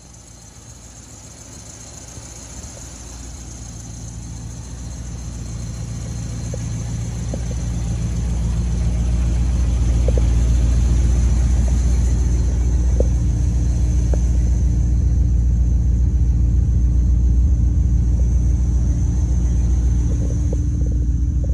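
The 1955 Chevrolet Bel Air's swapped-in fuel-injected V8 idling with a steady low rumble. The sound grows louder over the first several seconds, then holds even.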